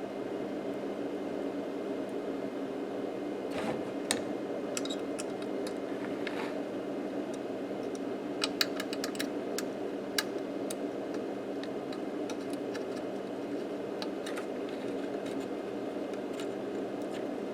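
Light clicks and taps of tools and small parts being handled on an electronics workbench, scattered from about three and a half seconds in, over a steady background hum.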